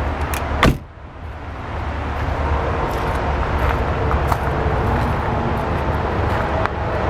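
A single sharp thump a little under a second in, over a steady low rumble and hiss.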